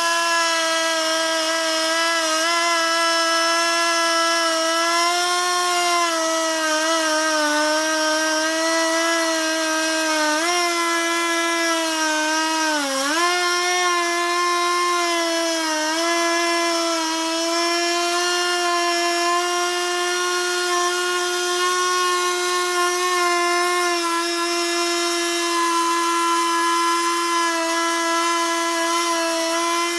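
Two-stroke chainsaw on a Logosol chainsaw mill running at full throttle as it rips lengthwise through a log, a steady high whine. Its pitch sags briefly a few times around the middle as the chain loads up in the cut, then recovers.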